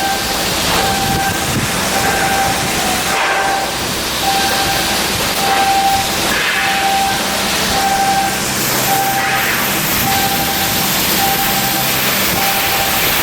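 A steady loud hiss of shipyard work, with a short electronic warning beep repeating about one and a half times a second over it.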